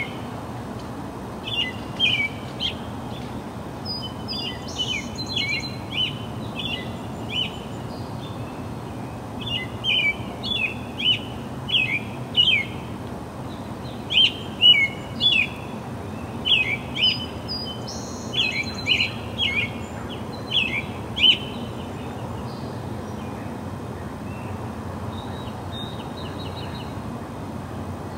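Small birds chirping: quick, high chirps that slide downward, in clusters, thinning out after about twenty seconds, over a steady low background noise.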